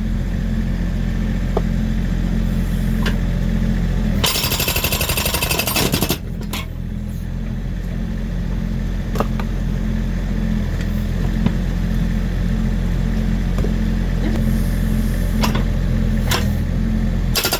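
Volvo EC60E mini excavator's diesel engine running steadily, with its hydraulic breaker hammering rapidly into a log for about two seconds, about four seconds in, to split it. A few sharp knocks are heard at other points.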